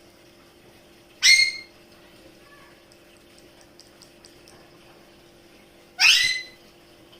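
A parrot gives two short, loud, harsh squawks, one a little over a second in and the other about five seconds later.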